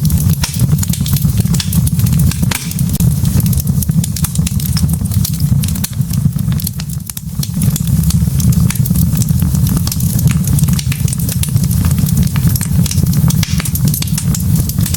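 Wood logs burning in a fireplace, crackling with many sharp irregular pops over a steady low rumble; the rumble dips briefly about halfway through.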